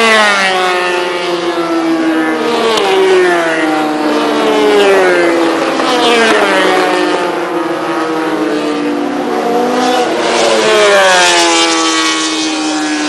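MotoGP racing motorcycle engines, 800cc four-strokes, revving hard. The pitch climbs and drops again and again as the bikes accelerate through the gears and brake for corners.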